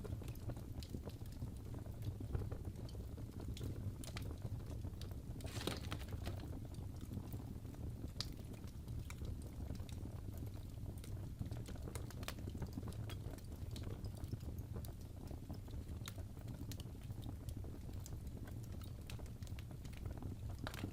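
Wood fire burning in a fireplace: scattered sharp crackles and pops over a steady low rumble of the flames, with a brief denser run of crackling about six seconds in.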